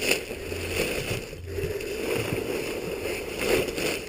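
Irregular rubbing and scrubbing noise, swelling and fading several times, with a faint low hum coming and going underneath.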